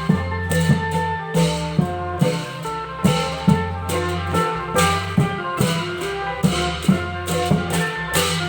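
Klong yao (Thai long drum) ensemble music: drum strokes in a steady beat over a melodic accompaniment with a held bass line.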